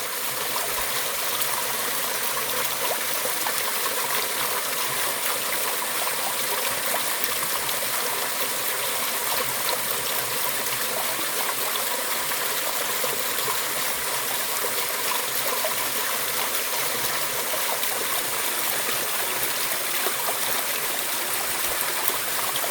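Mountain valley stream flowing, a steady rush of running water.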